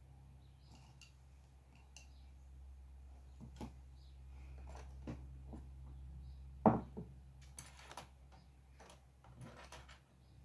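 Small sounds of drawing at a desk. Scattered light taps and clicks, one sharp knock about two-thirds of the way in, and two short scratchy rustles near the end, over a steady low hum that stops just before the end.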